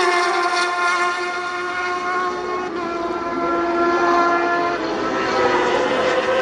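Racing motorcycle engine at high revs: the engine note eases down at first, holds steady for a few seconds, then climbs again as the bike accelerates about five seconds in.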